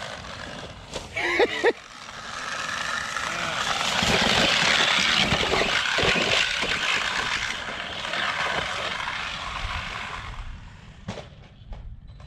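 Arrma RC truck's electric motor and drivetrain whining as it runs at speed. The sound builds up, is loudest about four to six seconds in, then fades away by about ten seconds, with a few short clicks near the end.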